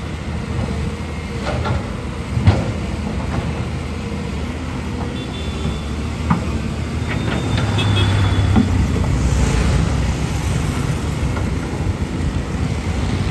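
Caterpillar 320 excavator's diesel engine running under load, growing louder partway through. A few sharp knocks sound over it, the loudest about two and a half seconds in.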